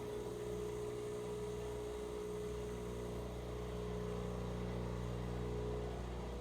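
Miele CVA 6805 built-in bean-to-cup coffee machine running with a steady electric hum as it makes the second cup of coffee.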